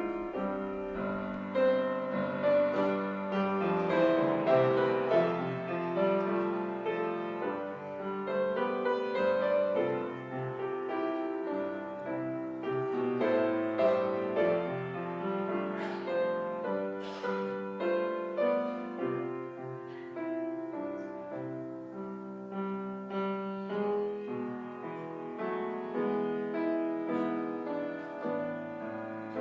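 Solo piano playing a slow instrumental passage of sustained chords.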